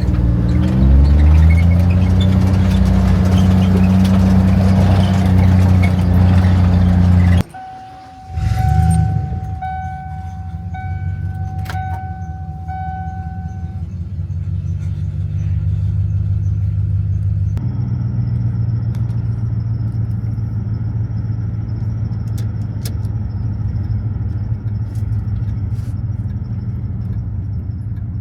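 John Deere Gator utility vehicle's engine running, rising in pitch as it speeds up at the start, then holding steady until it cuts off suddenly about seven seconds in. A few short beeps follow, then a steady engine drone for the rest of the time.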